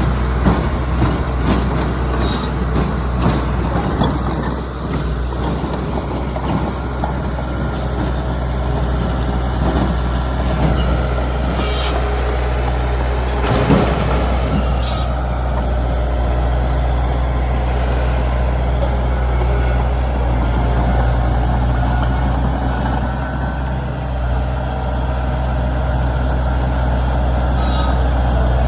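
Heavy diesel engines of earthmoving machinery running steadily with a low drone, with scattered knocks and clanks and a few short air hisses.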